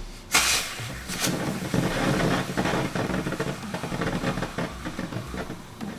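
TNT Zombie Zapper consumer firework going off: a sudden whoosh about a third of a second in, then a steady hissing spray with dense crackling.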